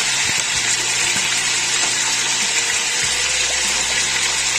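Chicken legs sizzling steadily as they fry in hot oil in a pan.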